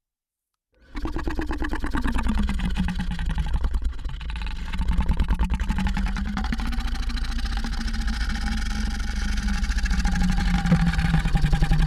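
Monster growl sound effect: one long, low, rough-pulsing creature growl that starts about a second in, its pitch sliding down at first and then holding steady.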